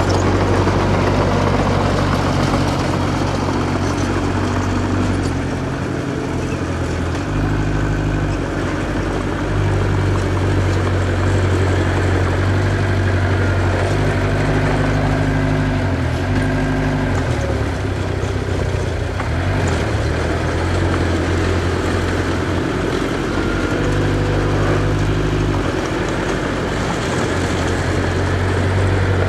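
Diesel engine of earthmoving machinery running continuously, its pitch stepping up and down several times as the load and throttle change.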